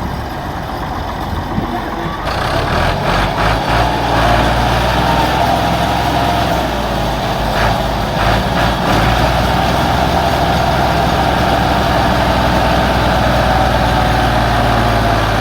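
Ford tractor engine running steadily, getting louder about two seconds in.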